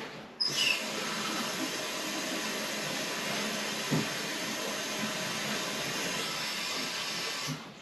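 Steady hiss of water rushing through a steam boiler's valve and piping, opening with a short falling whistle about half a second in and cutting off near the end.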